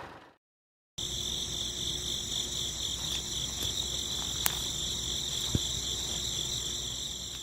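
Crickets chirring in a steady high trill, with a couple of faint clicks.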